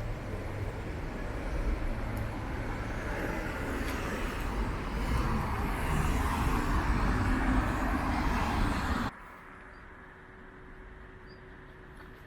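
Steady outdoor background noise with a low rumble, like road traffic. It cuts off suddenly about nine seconds in, leaving a much quieter background with a faint steady hum.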